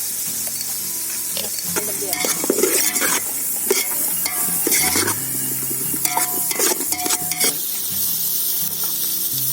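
Chopped vegetables and tomatoes frying in oil and ghee in a pan, sizzling steadily, while a spoon stirs and scrapes the pan in several short bursts.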